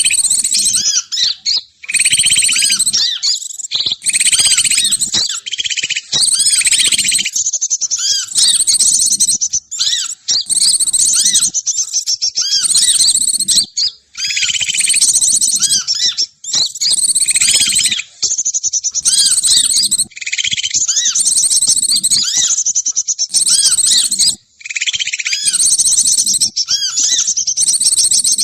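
Recorded songbird chatter played as a bird-trapping lure call: dense, high-pitched chirps and rapid trills in busy phrases a few seconds long, broken by short pauses.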